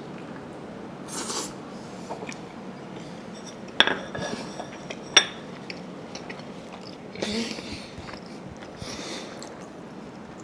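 Cutlery clinking against a plate: two sharp clinks a little over a second apart near the middle, with softer scraping and handling sounds around them.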